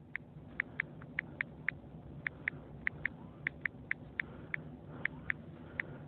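A series of short, light clicks, about three a second, unevenly spaced and often in pairs, over a faint steady low hum.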